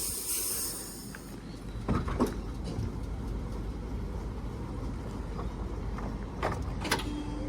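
H-set intercity electric train moving through the station: a steady low rumble, with a few sharp clicks about two seconds in and again near the end.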